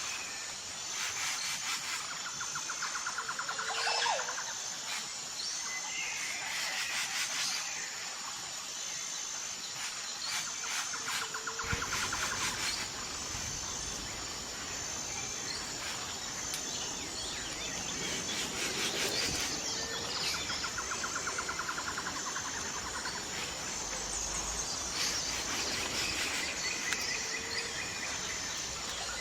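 Jungle ambience: a steady, pulsing high-pitched insect chorus, with bird calls and chirps that recur every several seconds.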